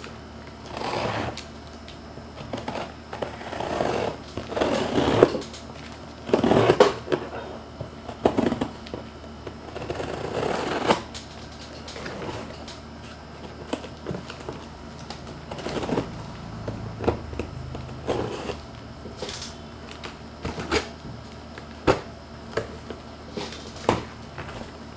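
Unboxing a vacuum cleaner: the box is opened and the packaging handled, with rustling and scraping swells through the first half, then scattered clicks and knocks as parts are lifted out and set down.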